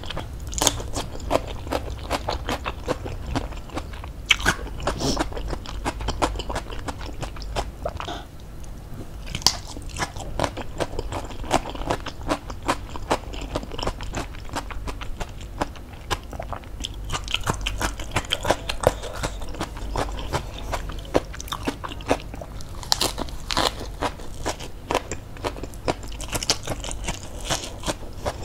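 A person chewing and biting crunchy food with the mouth closed, fresh lettuce among it: crackly, wet crunches repeating all through, a little louder about four seconds in and again near the end.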